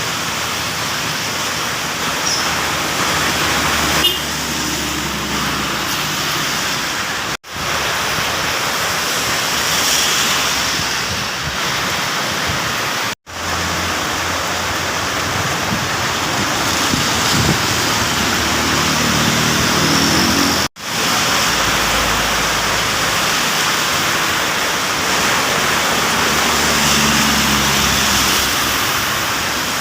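Heavy rain hissing steadily, with vehicles passing on the wet road underneath it now and then. The sound cuts out abruptly three times, for a split second each.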